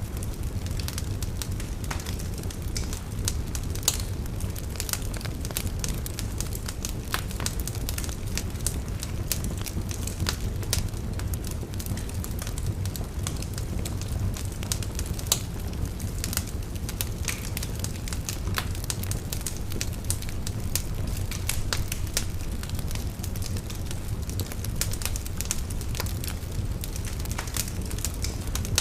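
Fire burning in a fireplace: a steady low rumble with frequent sharp crackles and pops scattered throughout.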